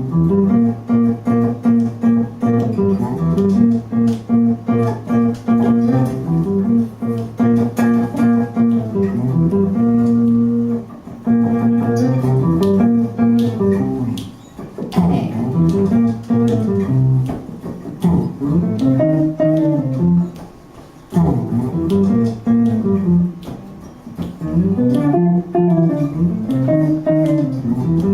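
Guitar playing a rhythm-and-blues intro: a repeating low riff that climbs and falls in a steady pattern, with higher notes played over it.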